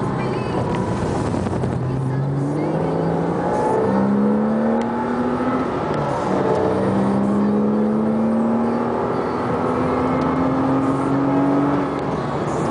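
Porsche Cayman S's 3.4-litre flat-six heard from inside the cabin, accelerating with its pitch rising steadily. It drops about five seconds in at an upshift, then climbs again.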